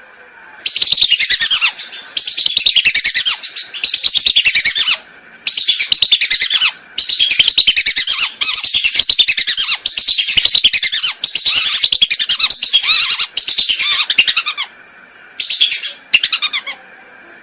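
Whistling duck (belibis) lure call: about a dozen bursts of rapid, high whistled notes. Each burst falls in pitch and lasts about a second, with short gaps between them.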